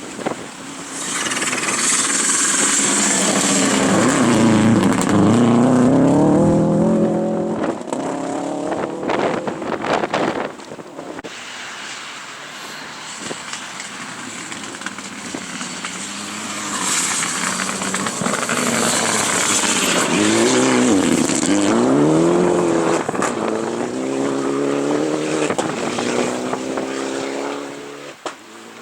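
Two rally cars pass one after the other. Each engine note falls and then climbs again in steps as the car accelerates away through the gears.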